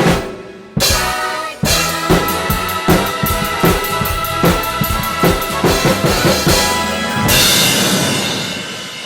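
Drum kit played along to a backing track, with a run of rapid drum hits that ends on a cymbal crash about seven seconds in, which then rings and fades.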